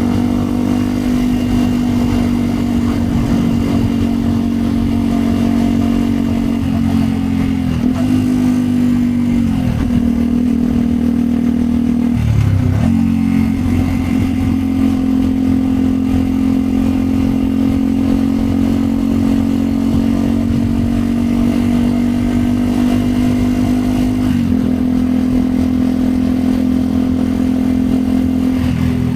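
Yamaha WR 125 X single-cylinder four-stroke engine with a Yoshimura aftermarket exhaust, running under way at fairly steady revs. The revs dip briefly a few times, most sharply about twelve seconds in, and pick back up each time.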